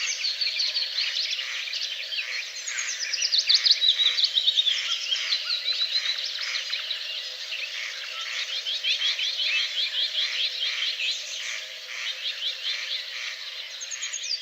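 Dense outdoor chorus of many animal calls: rapid, overlapping high chirps, many of them falling in pitch, going on without a break.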